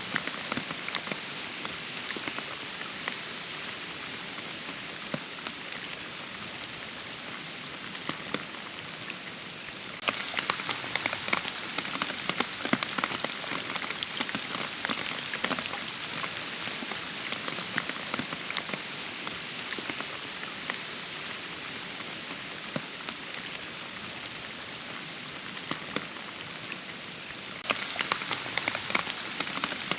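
Steady rain with many separate drops striking close by. It gets louder, with denser close drop hits, about a third of the way in and again near the end.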